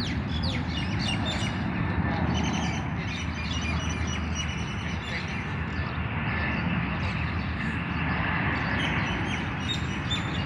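Many small birds chirping, in a dense flurry of short calls, over a steady low rumble.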